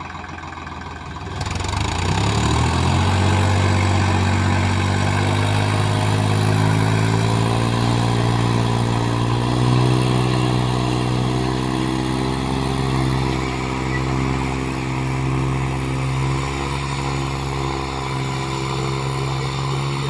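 Swaraj 735 tractor's three-cylinder diesel engine revving up about a second and a half in. Its pitch climbs for several seconds, then it runs steadily at high revs.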